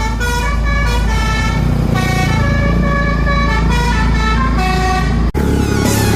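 A truck's musical horn plays a tune of short held notes that step up and down, over the steady rumble of the engine. The sound cuts off abruptly about five seconds in and gives way to a different engine rumble.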